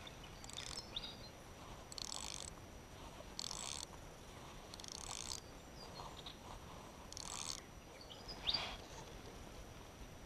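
Birds calling: a short, raspy, high call repeated five times about every one and a half seconds, with a sharp, quick downward-sliding call near the end that is the loudest sound.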